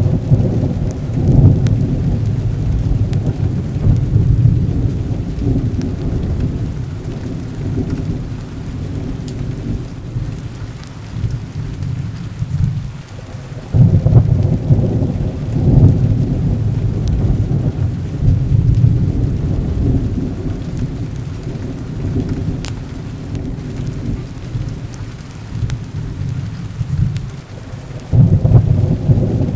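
Thunder rolling in long, deep rumbles over steady heavy rain. The rumble swells into louder peals about halfway through and again near the end.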